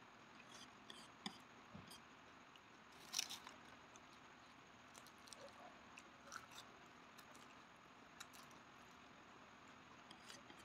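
Faint eating sounds: chewing and biting of noodles, with scattered small clicks of chopsticks and a wooden spoon against a wooden tray, the sharpest about three seconds in.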